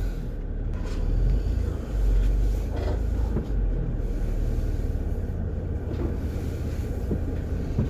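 Van engine running with low road rumble, heard from inside the cab as the van moves slowly.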